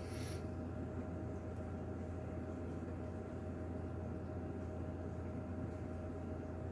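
Steady low hum with a faint steady tone and a light hiss, with a brief hissing rustle right at the start.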